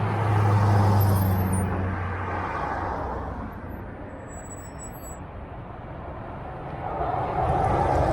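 Road traffic: a motor vehicle's engine hum fades out over the first few seconds, and another vehicle grows louder near the end.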